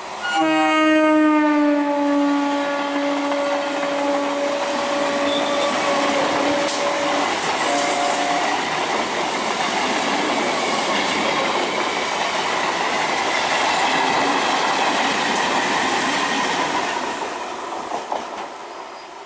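Vintage electric multiple unit (EMU) local train sounding its horn as it approaches: one long blast that dips slightly in pitch about a second in and fades out over several seconds, followed by a short second note about eight seconds in. The train then runs past close by, a steady rush of wheels on rails that fades out near the end.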